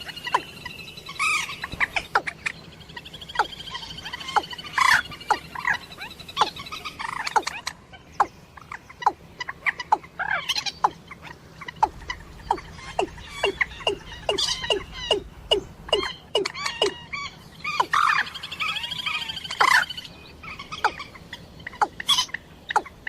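Recorded calls of a rail-family waterbird: a long series of short, sharp clucking notes, a few per second, with rattling trills near the start and again about eighteen seconds in. The calls are played as a lure for hunting.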